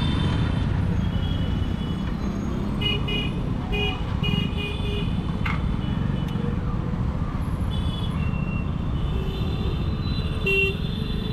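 Royal Enfield Continental GT 650's parallel-twin engine running steadily under way in traffic, with a dense low exhaust rumble. Vehicle horns toot in short beeps a few seconds in and again, more drawn out, near the end.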